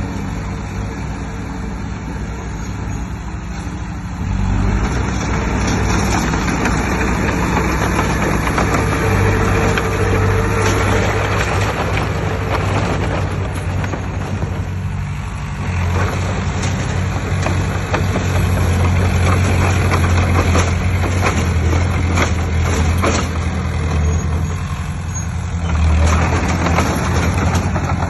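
Heavy diesel earthmoving machinery engine running steadily under work, with a rough mechanical clatter over a low engine hum. It gets louder about four seconds in and shifts again about halfway through.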